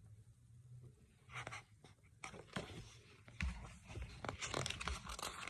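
Paper rustling, soft taps and handling knocks as a picture book's page is turned, busier and with low bumps in the second half.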